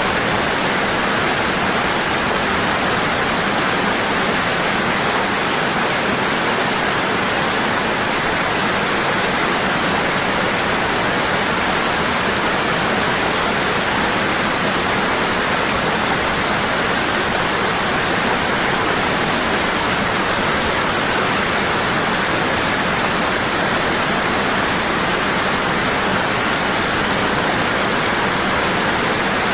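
Waterfall: water falling heavily and constantly, a steady, even rushing.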